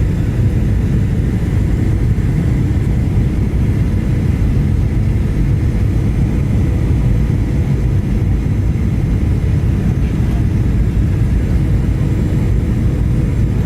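Steady cabin noise inside a Boeing 737-800: a low, even rumble of its CFM56 engines and the airflow past the fuselage, with a faint steady hum above it.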